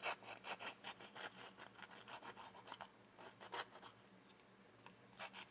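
Faint, quick strokes of a Tim Holtz distressing tool scraping along the edges of a cardstock card, roughing them up for a worn look. The scraping pauses about two-thirds of the way through and starts again near the end.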